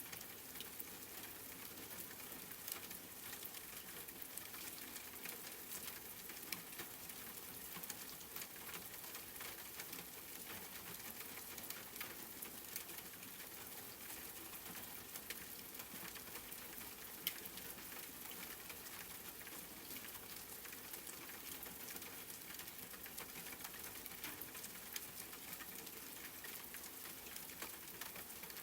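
Steady rain: an even hiss of falling drops with many small ticks of individual raindrops hitting a surface.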